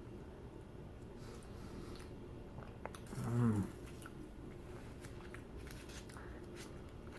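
Faint chewing and small mouth clicks of a person eating an ice-cream Blizzard with chunks of cheesecake and berries, with one short low hum about three seconds in.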